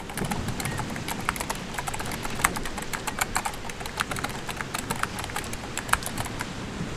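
A rapid, irregular run of sharp clicks and knocks over a steady rushing noise; the clicks stop shortly before the end.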